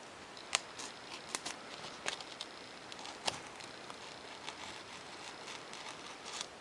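Hobby-knife work on 3 mm Depron foam sheet: a handful of sharp, light clicks and taps at irregular intervals over faint background hiss.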